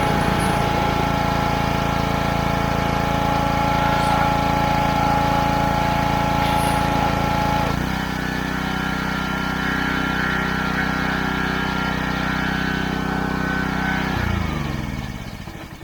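Power washer motor running steadily, its note shifting slightly about halfway through, then switched off near the end and winding down, its pitch falling until it stops.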